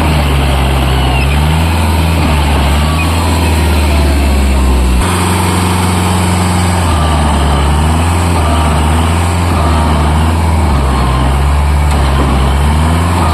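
Kubota MU4501 tractor's diesel engine working under load as it pulls a loaded trolley stuck in mud, its pitch rising and falling. The sound changes abruptly about five seconds in.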